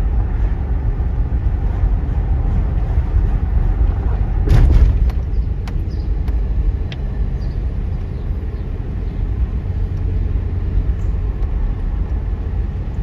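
Diesel locomotives idling as a low, steady rumble, with a short burst of air hiss about four and a half seconds in.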